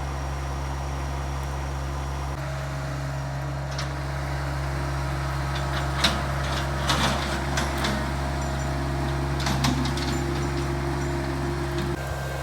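Small Yanmar compact tractor engine running steadily under load while skidding logs, its note shifting about two seconds in, with a few sharp knocks and clanks between about six and ten seconds in.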